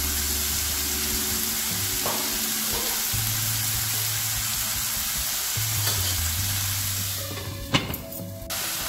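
Chicken, onion and tomato sizzling in oil in a non-stick wok while being stirred with a metal slotted spoon. Near the end a glass lid is set on the wok with a sharp clack, and the sizzling goes muffled under it.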